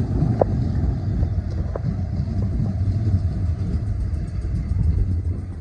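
Class 455 electric multiple unit running past at close range: a steady low rumble of wheels on the track, dying away near the end as the train draws off.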